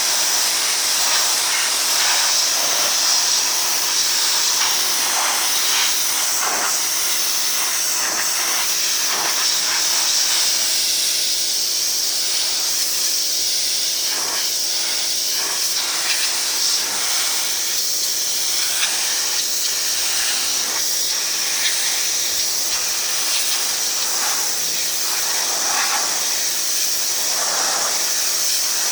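2200 psi electric pressure washer running: a steady hiss of the high-pressure water jet spraying, over the even hum of its electric motor.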